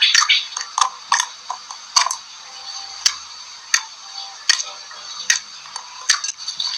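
Slime being squeezed and kneaded, giving sharp wet clicks and pops about once or twice a second, with denser crackling at the start.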